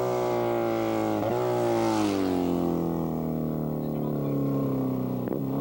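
Motorcycle engine running, its pitch jumping briefly about a second in, then sinking steadily for a couple of seconds before levelling off.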